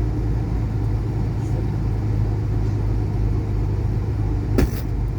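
Semi-truck diesel engine running steadily at low speed, heard from inside the cab. A single sharp click comes about four and a half seconds in.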